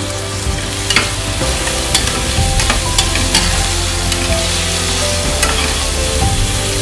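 Shallots and curry leaves sizzling in hot oil in a pressure-cooker pot, with a spatula stirring them and clicking against the pot several times.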